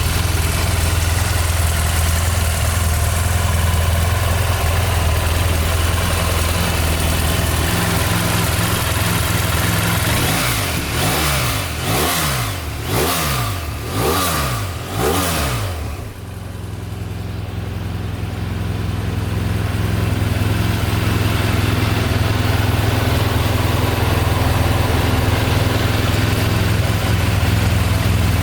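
BMW F800R's parallel-twin engine idling steadily. About ten seconds in, the throttle is blipped about four times in quick succession, each rev rising and falling, before it settles back to a steady idle.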